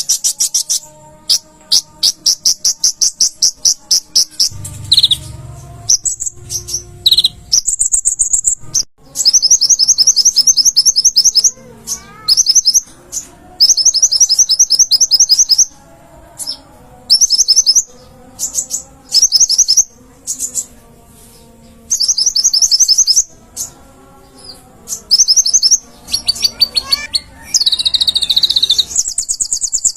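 Konin (kolibri ninja), a small sunbird, singing in loud, rapid, high-pitched trills. The song comes in one- to two-second phrases repeated again and again with short pauses between them: the energetic 'gacor' song kept birds are trained on.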